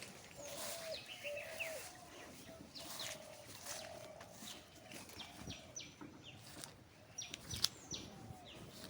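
Birds chirping: many short, quick descending notes, over a lower wavering call in the first half, with a few sharp clicks.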